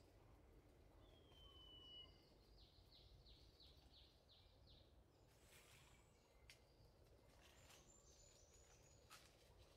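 Near silence with faint bird calls: a thin whistle about a second in, then a quick run of about eight repeated chirps, over a low rumble.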